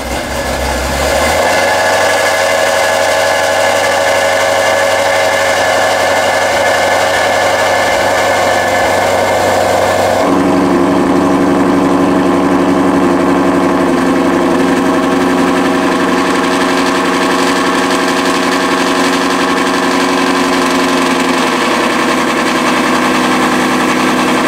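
Ford Mustang Shelby GT350's 5.2-litre flat-plane-crank V8 running at a steady idle through a very loud aftermarket exhaust. About ten seconds in, its note changes abruptly to a deeper tone.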